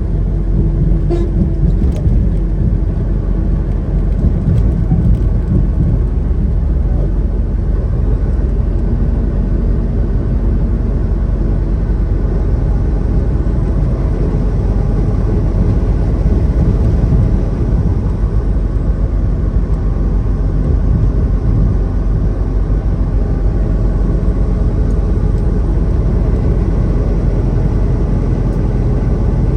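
Semi-truck driving at road speed, heard from inside the cab: a steady low rumble of engine and road noise with no change in pitch.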